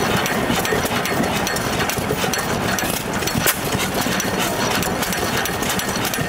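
Old hit-and-miss stationary engine running, with a stream of small mechanical clicks and one sharper click about halfway through.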